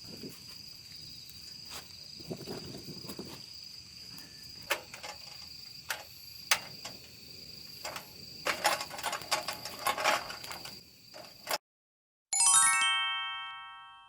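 Wood fire crackling with scattered sharp snaps and pops, over a steady high trill of crickets. After a short cut to silence, a descending run of bright chime notes rings out and fades.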